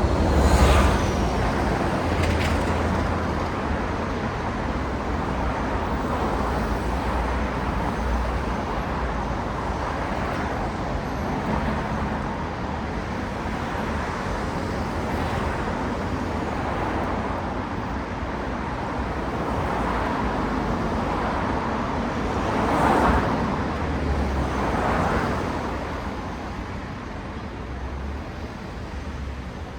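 City road traffic: a steady wash of cars passing, with a few vehicles going by close and louder, once near the start and twice toward the end.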